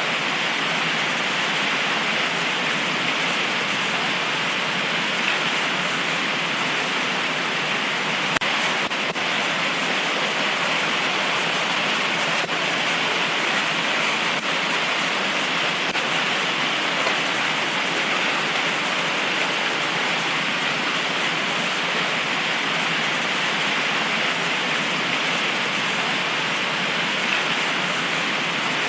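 Heavy tropical rain pouring down steadily: a dense, even hiss with no thunder.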